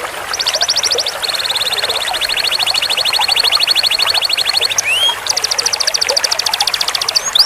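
Canary singing long rolls: fast trills of rapidly repeated high notes. A short high roll comes first, then a long lower roll of about three and a half seconds, a couple of rising slurred notes, and another high roll of about two seconds.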